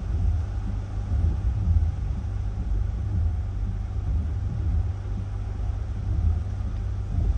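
Strong hurricane wind buffeting the microphone: a low rumble that swells and dips with the gusts, over a faint hiss.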